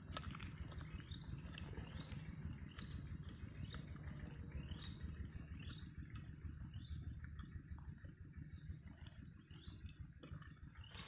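A bird repeats a short, high call that rises and then levels off, about three calls every two seconds, over a low steady rumble.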